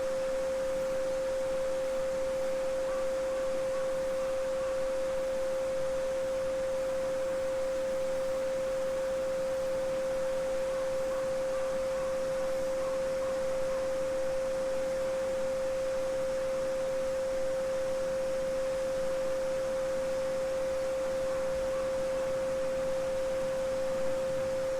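A steady pure 528 Hz sine tone held without change, over the even rush of a babbling brook.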